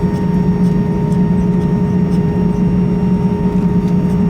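Airbus A320 cabin noise while taxiing after landing: a steady low hum from the aircraft with a few fixed tones in it.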